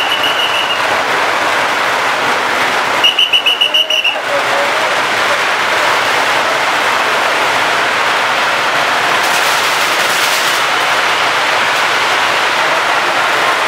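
Continuous dense crackle of strings of firecrackers going off. A whistle sounds briefly at the start, and a trilling whistle blast cuts through about three seconds in.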